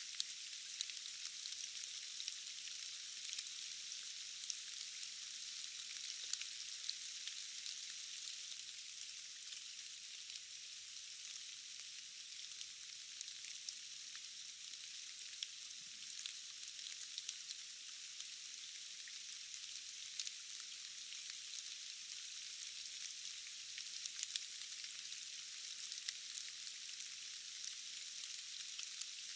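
Steady rain: an even, high hiss of falling drops with many short, sharp drop ticks scattered through it.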